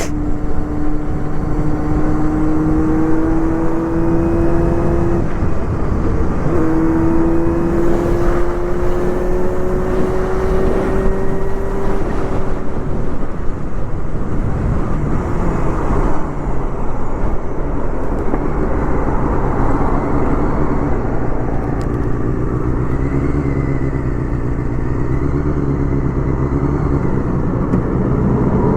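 Honda Hornet 250's inline-four engine through a loud aftermarket Pretty Racing exhaust, accelerating with a high rising whine for about twelve seconds, with a brief dip about six seconds in as it shifts up. It then eases off into steadier running.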